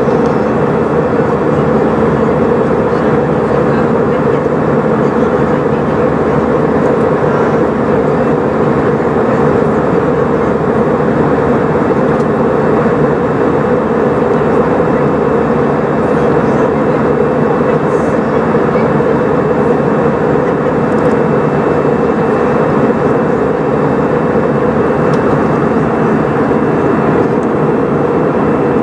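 Steady engine and airflow drone heard inside the cabin of an Airbus A320 in flight, with an even hum and no changes.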